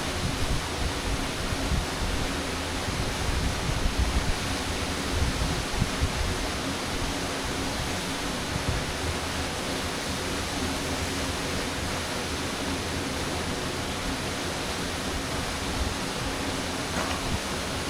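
Waterfall rushing: a steady, even roar of falling water, with a few low rumbling gusts in the first seconds.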